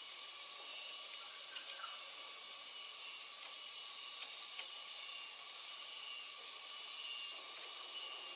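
A steady high hiss with faint thin tones that come and go.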